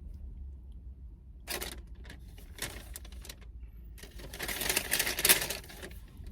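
Crinkling and rustling of a food wrapper handled in three spells, the longest and loudest about four seconds in, over a steady low hum.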